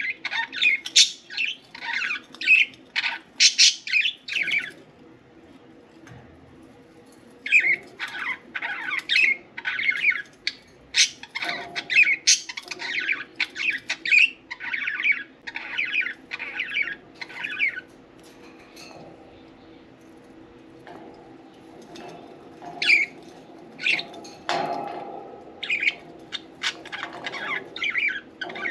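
Budgerigars chirping and chattering in quick bursts of short, high calls, with two brief quieter lulls, over a faint steady low hum.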